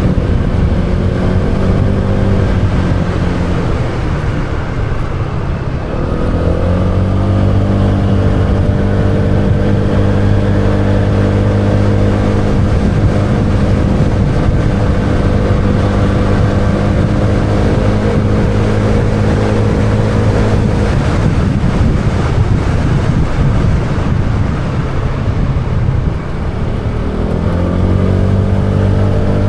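Motorbike engine running under way, holding a steady note, easing off twice (about two seconds in and again about twenty seconds in) with the pitch sinking, then picking back up.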